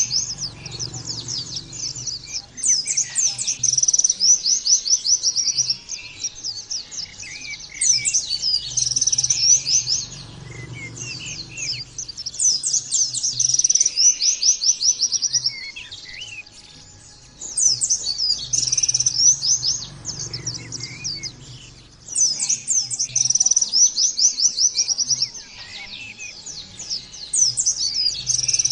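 White-eye (pleci) song: bouts of fast, high, chattering trills a few seconds long, repeating every five seconds or so with short pauses between.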